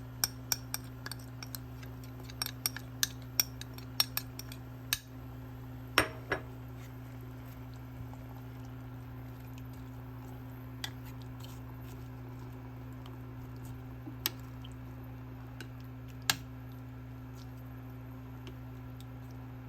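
Dishes and cutlery clinking: a quick run of light clinks and taps over the first five seconds, a louder knock about six seconds in, then two single clinks later, over a steady low hum.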